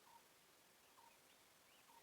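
Faint bird calls over near silence: short chirps about once a second, with fainter, higher calls between them.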